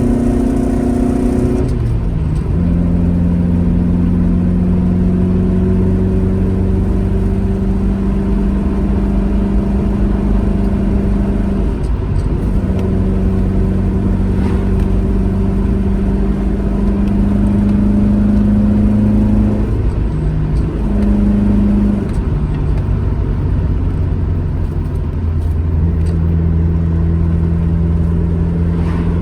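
Alfa Romeo GT Junior's twin-cam four-cylinder engine running steadily under way. Its note steps down about two seconds in and shifts several more times further on, as gears change, then rises again near the end.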